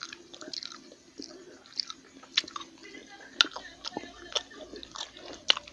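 A person chewing and biting food close to the microphone: irregular wet clicks and soft crunches.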